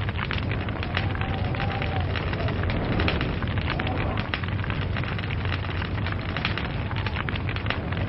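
Log fire crackling: a dense, irregular patter of small sharp pops and snaps over a steady low rumble of burning.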